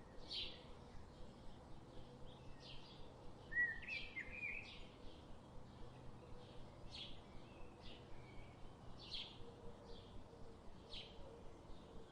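Birds chirping faintly: short high chirps about once a second, with a brief lower, warbled phrase about four seconds in.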